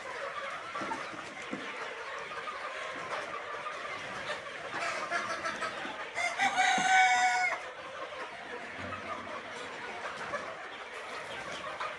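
A flock of Sonali roosters calling and clucking steadily, with one rooster crowing loudly for about a second and a half, six seconds in.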